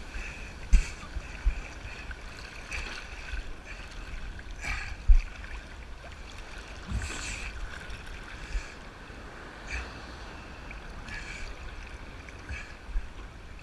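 Ocean surf washing and sloshing around a person standing in the waves, with irregular splashes and low thumps of wind buffeting the microphone.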